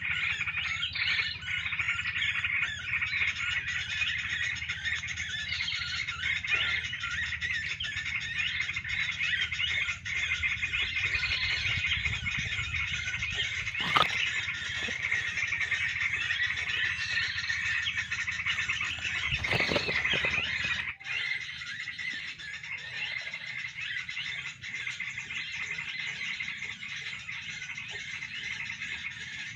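Dense, continuous chattering of many small songbirds, short high chirps overlapping, with a higher call recurring every five or six seconds, as at a bird-luring spot. A sharp knock comes about halfway through, and a brief thump a few seconds later.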